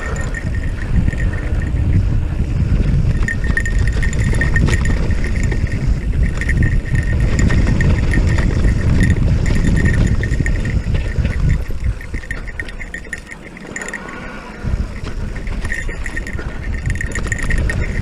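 Electric mountain bike riding a rough dirt trail: wind buffets the microphone and the tyres rumble over the ground, with a fast, high clicking buzz that comes and goes. It eases off for a moment about two-thirds of the way through, then picks up again.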